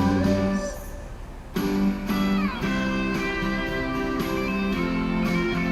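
Instrumental break of a pop karaoke backing track, led by guitar. The music drops out for about a second near the start, then comes back in with a sliding, falling guitar line.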